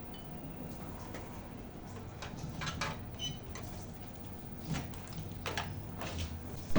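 Scattered light clicks and knocks of the casing and parts being handled while a mini hi-fi system is taken apart, over low steady background noise.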